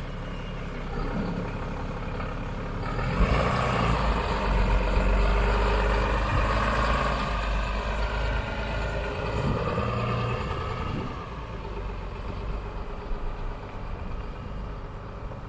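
Ram pickup truck towing a large toy hauler trailer, its engine and road noise swelling about three seconds in and easing off after about eleven seconds as it drives by.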